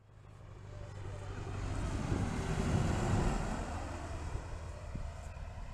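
Small propeller airplane engine running with a steady low drone, growing louder to a peak partway through and then easing off, with some wind noise.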